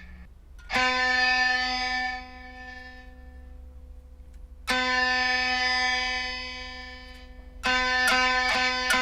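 Electric diddley bow, a single-string instrument played through an amplifier. One note is plucked and rings out, fading; a second pluck on the same note follows about four seconds later. Near the end, quick repeated plucks, several a second.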